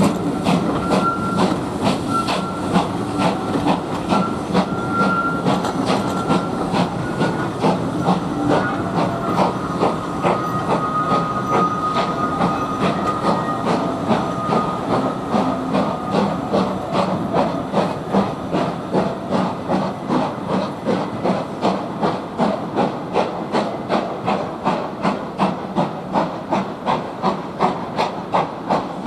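Steam locomotive working hard, its exhaust chuffing in an even beat of about two to three a second over a steady hiss of steam.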